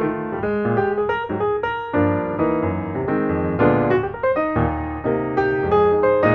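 Background piano music: notes struck in quick succession.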